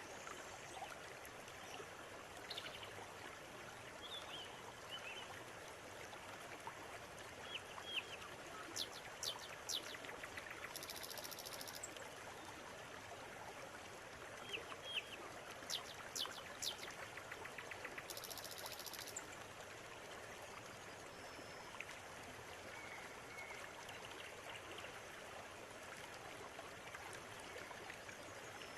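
River water running in a steady rush, with birds chirping and calling over it in scattered short notes; around the middle come two clusters of sharp high chips and two short high buzzing trills.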